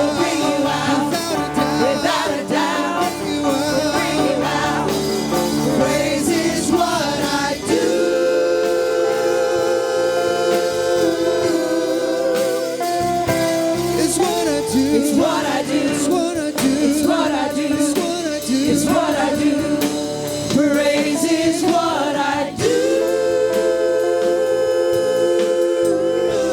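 Gospel praise song: singing over instrumental accompaniment, with long held chords about eight seconds in and again near the end.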